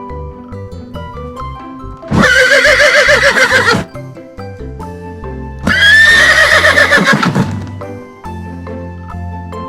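Horse neighing twice, each whinny about one and a half seconds long with a quavering pitch, over soft background music.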